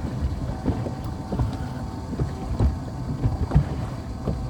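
Small boat on the water: a steady motor hum with wind buffeting the microphone and irregular low thumps.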